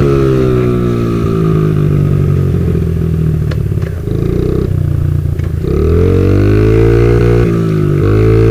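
Motorcycle engine running loud and close, its pitch sliding down over the first couple of seconds, dropping lower with a few sharp clicks midway, then rising again and holding steady.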